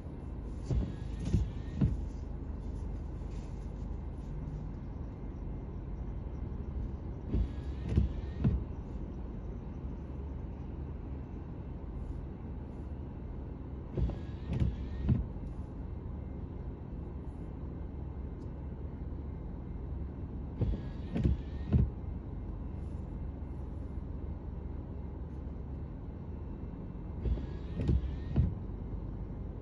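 Car windshield wipers on an intermittent setting, sweeping about every six and a half seconds: each sweep gives two or three knocks with a short rising squeak of the blades, over a steady low rumble inside the cabin.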